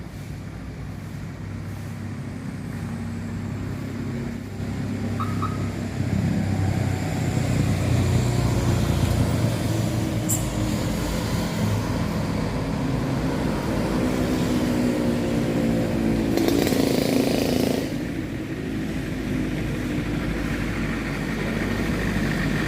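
A motor vehicle's engine running, growing louder over the first several seconds and holding a steady pitched drone, with a brief noisier rush near the end.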